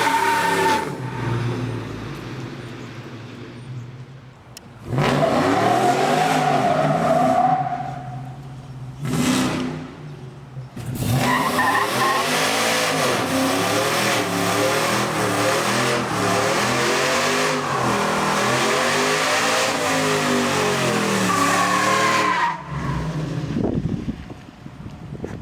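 Modified V8 truck engines revving up and down over and over, about once a second, in several loud stretches that start and stop abruptly, with a high whine rising and falling along with the revs.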